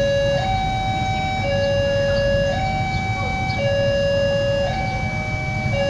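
Electronic two-tone warning signal alternating steadily between a low and a higher note, each held about a second, over a steady low rumble.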